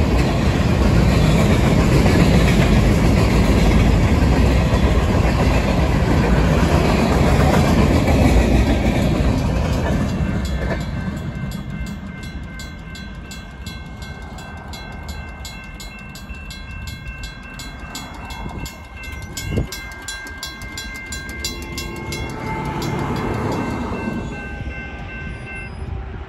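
Freight cars of a Union Pacific mixed freight rolling past with clickety-clack on the rails, fading away after about ten seconds. Then the railroad crossing bells ring, a mechanical bell striking rapidly alongside the steady ringing tones of an electronic bell. The bells stop near the end, with one sharp knock partway through.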